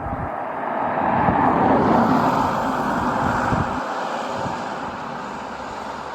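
A road vehicle passing by, its tyre and engine noise swelling to a peak about two seconds in and then slowly fading.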